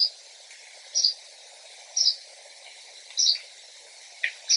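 A bird chirping: short high chirps about once a second, over a faint steady hiss.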